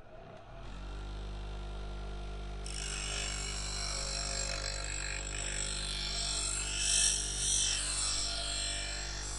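A grinding machine's motor starts up and runs with a steady hum. About two and a half seconds in, a metal garden scraper catches in it, and a loud, harsh grinding and scraping starts over the hum and keeps going.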